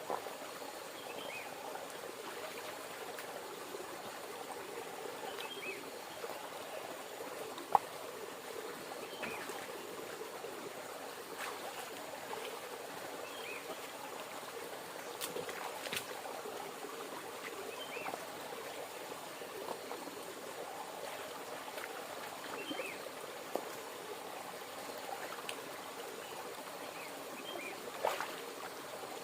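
River water running steadily, with a few sharp clicks, the loudest about eight seconds in.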